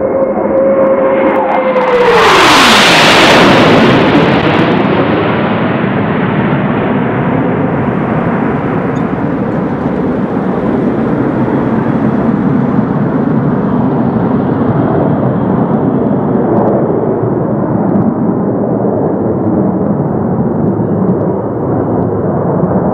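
Blue Angels F/A-18 Hornet jet passing low overhead. A high engine whine drops sharply in pitch about two seconds in as the jet noise peaks, then the engine noise lingers and slowly fades.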